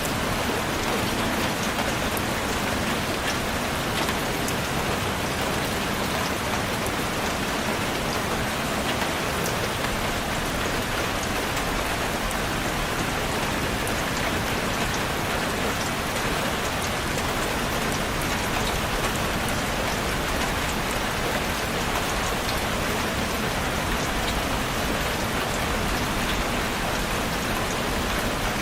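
Steady, even rainfall, drops pattering on a surface with no breaks or lulls.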